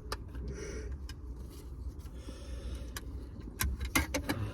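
Low, steady rumble of a car, with scattered sharp clicks and small rattles, several close together near the end.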